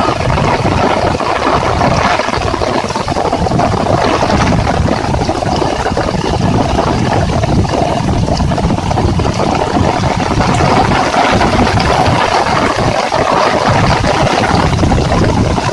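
Heavy rain falling steadily: a loud, dense, even hiss of countless drops with no breaks.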